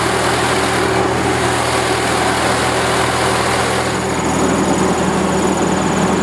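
The engine of a 1943 Minneapolis Moline WWII generator set running steadily just after being crank-started. A thin, high, steady whine joins it about four seconds in.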